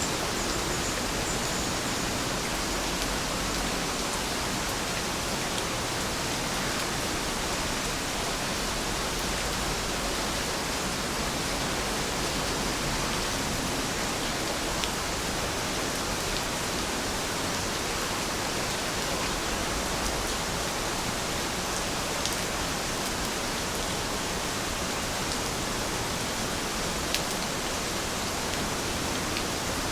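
Heavy rain falling steadily, an even hiss with a few faint drop ticks here and there.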